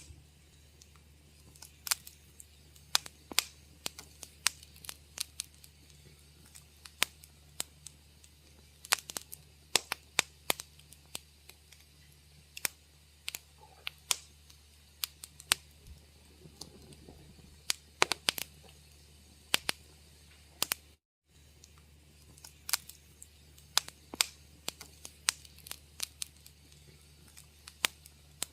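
Wood fire crackling: irregular sharp pops and snaps, several a second at times, over a steady low hum. The sound cuts out completely for a moment about two-thirds of the way through.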